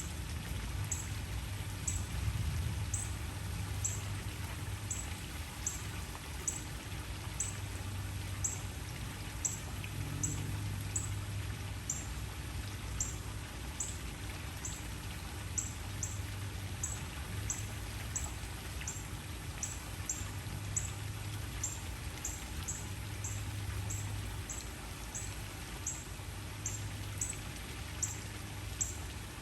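Waterfall: steady rushing and splashing water with a low rumble. A short, high chirp repeats about every half second or so over it.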